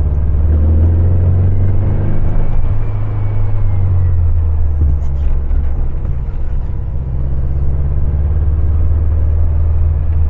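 Air-cooled 1915cc flat-four engine of a 1974 VW 1303S Super Beetle pulling the car along the road, a steady low rumble heard from inside the cabin. It eases off briefly a little past halfway.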